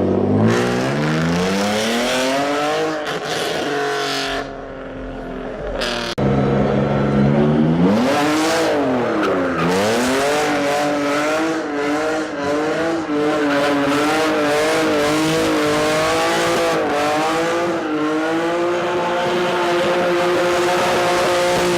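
A car engine revving hard. The revs climb steeply, then climb again after a break. They dip once and then are held high and steady for the last ten seconds or so.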